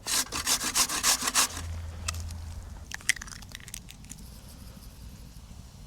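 Hand saw cutting wood in quick rasping strokes, about seven a second, for a second and a half, then a few scattered clicks and knocks.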